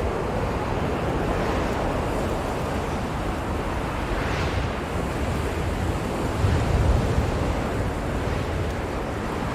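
Blizzard wind blowing steadily, a dense rushing noise with a low rumble that swells into a stronger gust about seven seconds in.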